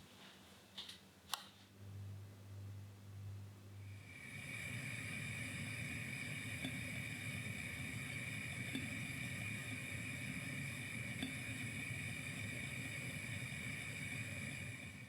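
An electric appliance motor starts about four seconds in and runs steadily with a high whine over a low rumble, stopping near the end.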